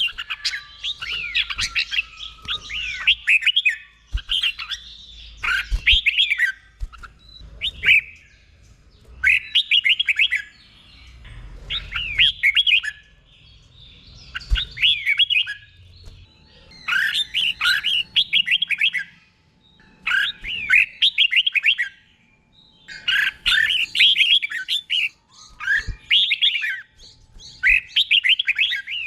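Red-whiskered bulbul singing its doubled song: short, bright, warbling phrases repeated every second or two, with a few short pauses. There are occasional low thumps underneath.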